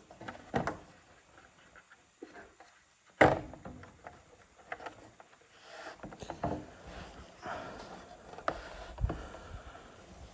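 Scattered knocks, clicks and rustling from tools and wood being handled, with one sharper knock about three seconds in.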